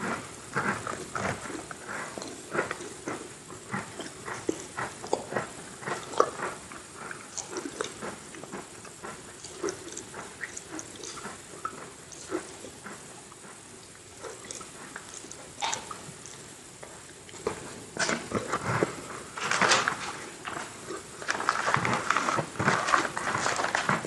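Close-miked chewing and crunching of Oreo cookies with cream, a run of small crisp crunches that grows louder and denser near the end.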